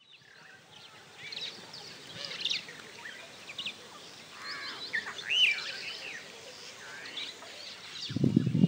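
Several birds singing and calling: many short chirps and whistled notes that rise and fall in pitch, over a faint steady background hiss. Near the end a louder, dense, low-pitched sound starts suddenly.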